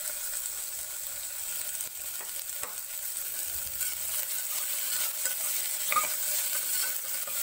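Chopped vegetables sizzling in ghee in a pressure cooker as they are sautéed and stirred with a perforated steel skimmer ladle. A steady frying hiss runs throughout, with a few light clicks and scrapes of the ladle against the pot.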